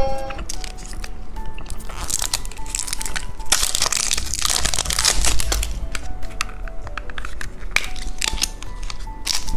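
Plastic candy packaging crinkling and rustling as it is handled, over light background music.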